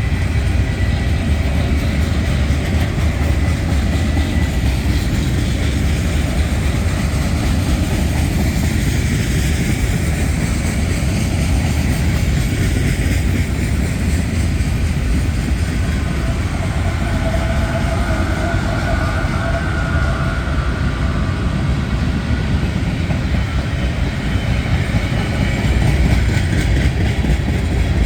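A CSX freight train's cars rolling past, a steady loud rumble of wheels on rail with some clickety-clack. Faint whining tones come in partway through.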